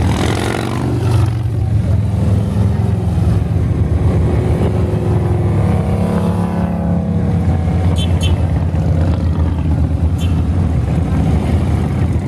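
Motorcycles in a convoy rumbling past in a continuous stream. Single bikes pass close by at the start and again about six to seven seconds in, their engine note dropping as they go by.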